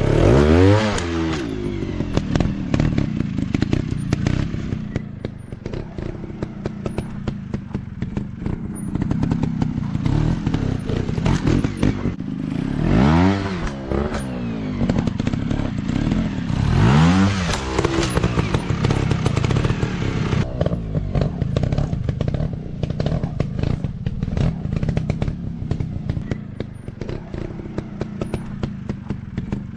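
Dirt bike engine running at low revs and revved up and back down three times: just after the start, about halfway through, and a few seconds later.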